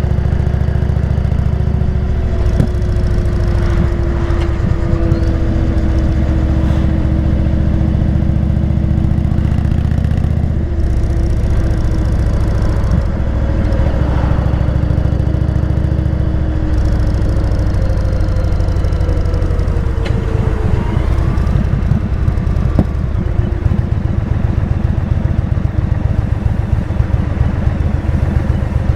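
Motorcycle engine running under way. Its note slides in pitch and steps up and down several times as the throttle and gears change.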